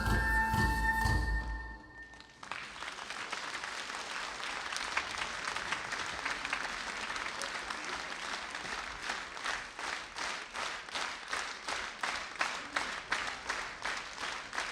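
The dance music ends in the first two seconds, then an audience applauds; about halfway through the applause settles into rhythmic clapping in unison, about three claps a second.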